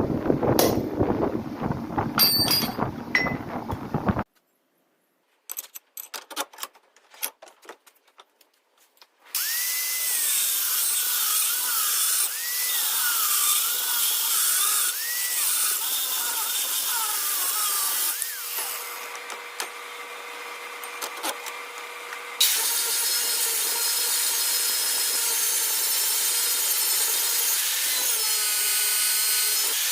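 Power sander running against the knife blade's steel. Its pitch dips and recovers several times as the work is pressed in, then it runs steadily and a little louder from about two-thirds of the way in. The opening seconds hold wind noise on the microphone and a few light clicks.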